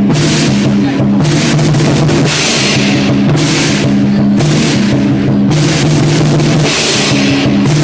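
Lion dance percussion: a large drum beating with cymbals crashing about once a second, over ringing low tones.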